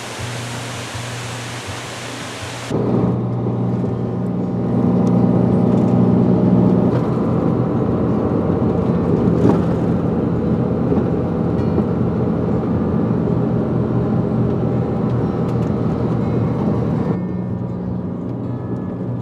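Waterfall water rushing as a steady hiss, cut off abruptly about three seconds in. A louder, steady low rumble follows, with background music.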